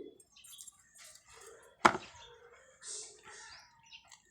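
A single sharp knock about two seconds in, amid faint scattered clatter.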